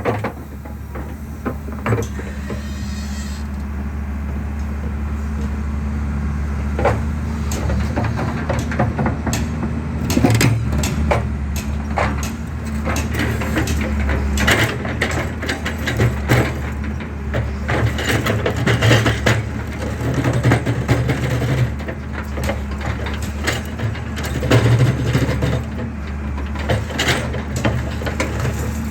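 Excavator's diesel engine running steadily while concrete is being crushed, with irregular sharp cracks and crunches of breaking concrete, coming thicker in the second half.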